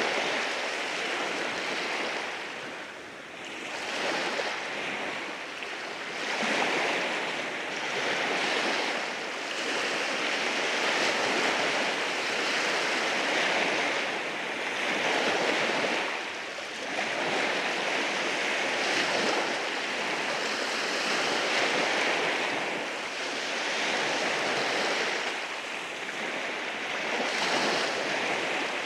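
Waves breaking and washing over rocks at the shore, a continuous rushing that swells and eases every few seconds.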